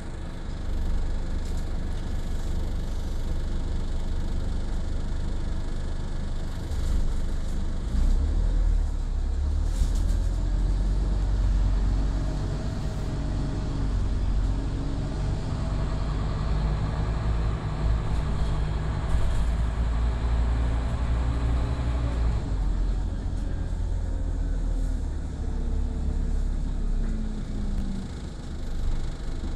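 Scania OmniCity city bus's diesel engine running under way with a heavy low rumble, the engine note rising through the middle, changing abruptly about two-thirds of the way in, then falling off near the end.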